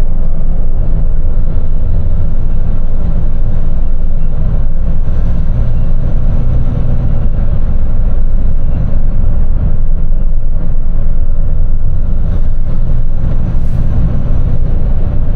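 Box truck driving at highway speed: a steady, loud, low rumble of engine and road noise.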